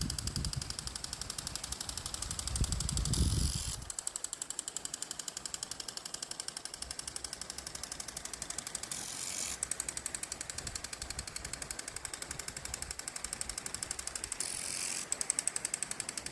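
Steady, rapid mechanical ticking, about five ticks a second, with a low rumble under it for the first four seconds that then drops away.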